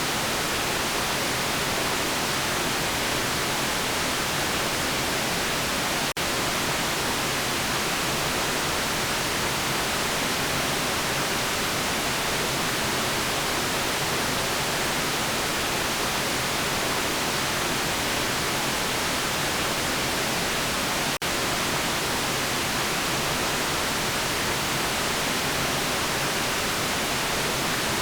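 Steady white noise: an even, constant hiss spread across the whole range, strongest in the highs. It drops out for an instant twice, about 6 seconds and 21 seconds in.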